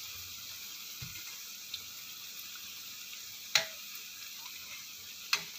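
Banana fritters frying in hot oil with a steady sizzle. A spatula clicks against the pan twice, once about three and a half seconds in and again near the end.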